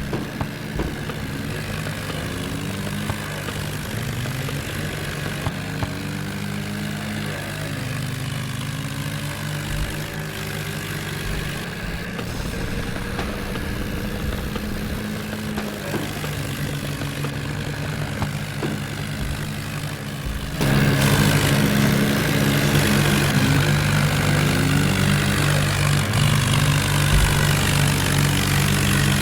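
Diesel tractor engine running steadily, getting suddenly louder about two-thirds of the way through.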